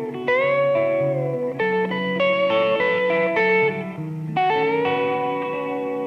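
Guitar music: plucked notes and chords, with some notes bent or slid in pitch and held to ring.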